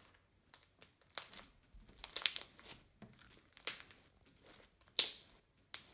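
Slime being squeezed and crunched in the hands, its trapped air popping in irregular crackles and clicks, the loudest crunch about five seconds in.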